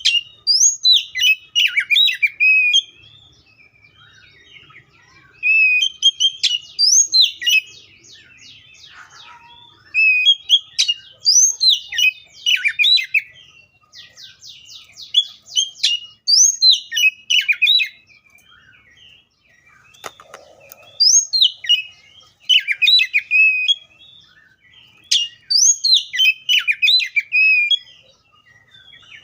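Oriental magpie-robin singing loud, varied phrases of whistled notes and fast rattling trills, repeated every few seconds.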